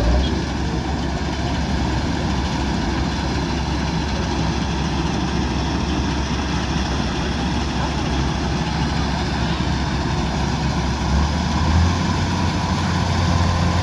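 Kubota DC-105X combine harvester's diesel engine running steadily under working noise. Near the end its low hum shifts up in pitch and grows a little louder.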